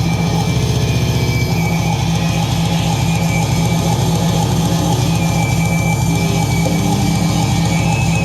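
Live rock band playing loud, a dense, steady wall of electric guitar, bass and drums.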